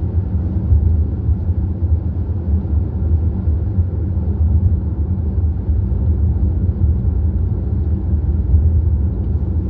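Motorcycle cruising at a steady highway speed: an even low rumble of engine and wind noise that does not change.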